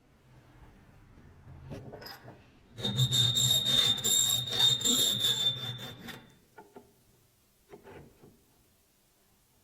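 Rubbing or filing against a workpiece for about three seconds, with a steady high squeal running through it, then a few light knocks.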